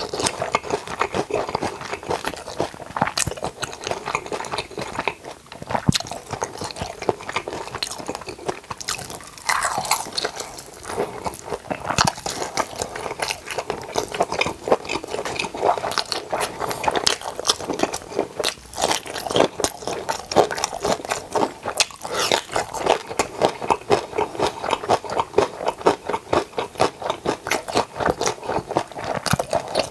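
Close-miked chewing of a mouthful of bossam (boiled pork), a dense, uneven run of short smacks and clicks from the mouth.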